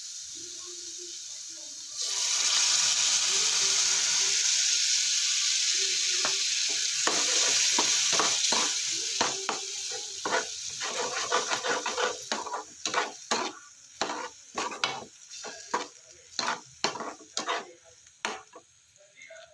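Spinach puree sizzling loudly in a hot kadhai of fried masala, the hiss starting suddenly about two seconds in and then dying down. Under it and then alone, a metal spatula scrapes and knocks against the pan about twice a second as the puree is stirred.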